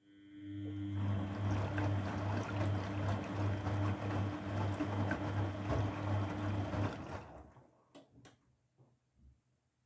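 Grundig washing machine moving water, a rush of water over a steady electric hum. It builds up over about a second, runs for about six seconds and stops, followed by a few light clicks.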